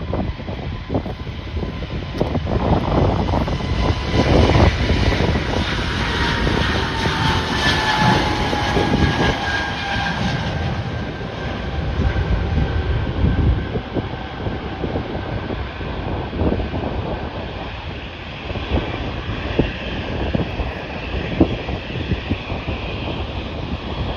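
Airliner passing by, its engine whine falling slowly in pitch as it goes past, with gusts of wind buffeting the microphone.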